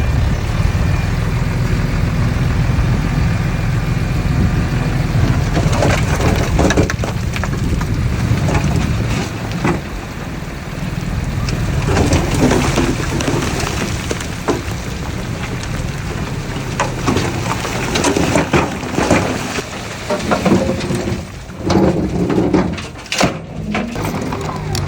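Earthmoving machine's engine running with a steady low rumble, joined after about five seconds by irregular crunching and cracking of soil and stones being moved. The crunching grows busier toward the end.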